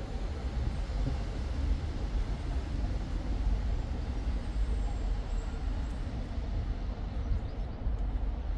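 Steady low rumble of a train running by, even throughout with no sudden sounds.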